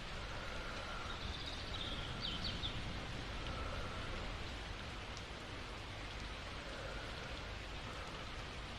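Steady rain falling, an even hiss of drops, with a few faint high chirps about two seconds in.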